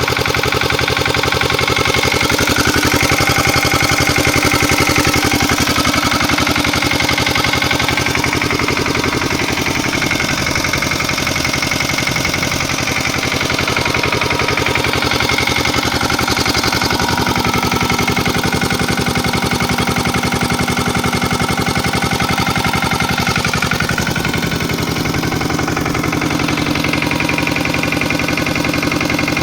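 Small tractor's Lombardini engine running continuously, its speed shifting up and down a little now and then, as the tractor works stuck in mud.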